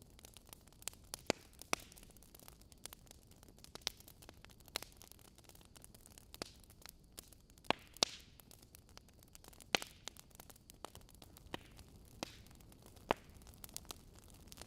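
Logs burning in a fireplace, crackling: irregular sharp pops and snaps over a faint steady hiss.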